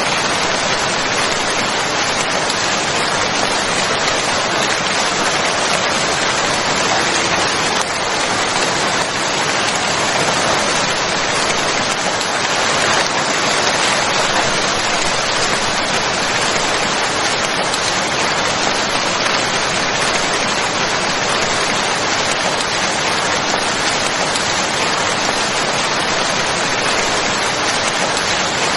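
Steady, even rain falling as a continuous hiss, without thunder or other events.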